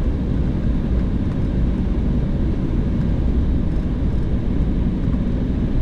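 Steady low rumble inside the cabin of an Embraer 190 on the ground before takeoff, its engines running, with a faint constant hum over it.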